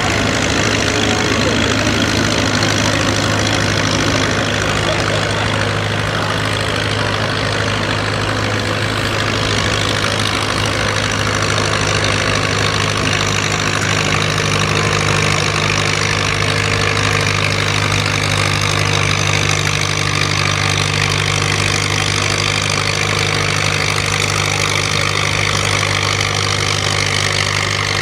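Antique farm tractor's engine running steadily at a constant pitch.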